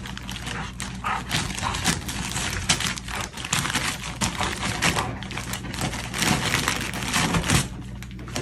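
A dog tearing and crinkling the wrapping paper off a present, a rapid, uneven run of rustles, rips and small clicks that gets louder near the end.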